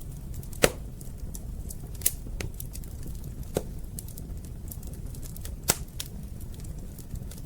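Wood fire crackling in a fireplace: a steady low rumble with scattered small crackles and a few sharp louder pops, the strongest about a second in and again near six seconds.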